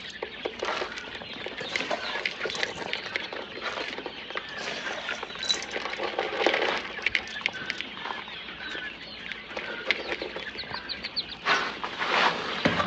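A flock of chickens at feeding time: clucking and short calls over a steady patter of small sharp clicks, with wing flapping near the end.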